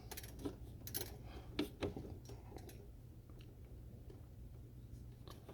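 Faint, scattered clicks and taps of hands and a tool working a loose bolt on the back case of a Winix air purifier, most of them in the first two and a half seconds, over a faint steady low hum.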